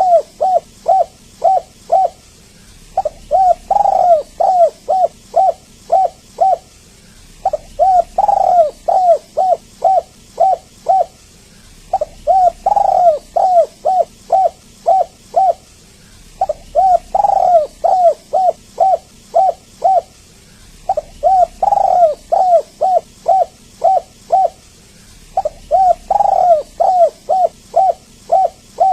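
Spotted dove (tekukur) cooing in a repeated phrase: one longer coo that rises and falls, then five or six short, quick coos. The phrase comes back about every four and a half seconds.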